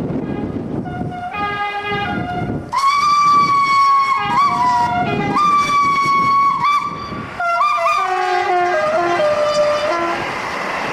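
Steam locomotive whistles. A fainter whistle about a second in, then a long, loud, shrill blast broken by brief dips, then lower, wavering whistle notes that stop near the end. Wind rumbles on the microphone at the start.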